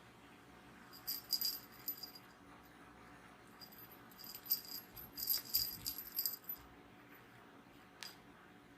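A kitten's toy jingling and rattling in two bouts as it is batted about, with a single light tap near the end.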